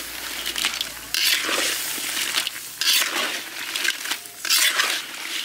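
Whole crabs sizzling in a wide pan of spiced oil as they are turned over with a long metal spatula, the hiss surging several times with the turning. The crabs are at the half-cooked stage.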